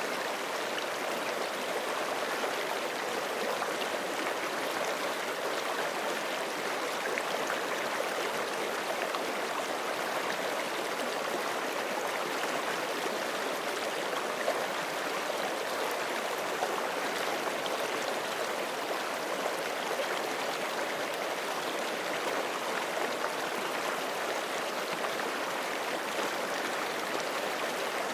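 Forest creek flowing over rocks: a steady, even rush of running water with fine splashing and gurgling detail.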